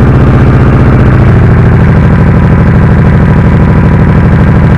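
1994 Honda Shadow VT1100C's V-twin engine idling just after start-up, with a steady, even pulse that eases slightly lower about a second in. It is being run briefly after an oil change to circulate the fresh oil before the level is checked.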